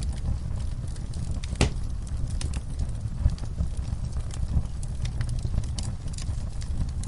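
Fire in a fireplace crackling: a steady low rumble of flame with frequent small irregular pops and snaps, and one louder pop about one and a half seconds in.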